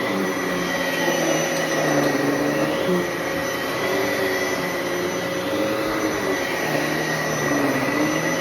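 Bissell Heavy Duty (93Z6) bagless upright vacuum cleaner running steadily, with a constant motor whine. Its lower hum wavers slightly in pitch throughout.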